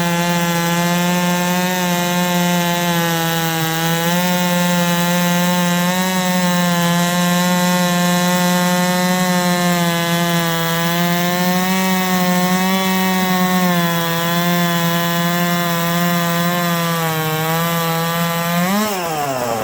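Big-bore Holzfforma G660 chainsaw (98.5 cc, 8-tooth sprocket) at full throttle on a chainsaw mill, ripping a plank from a log, its pitch steady with slight wavering under load. Near the end the pitch jumps briefly, then falls quickly as the throttle is let off.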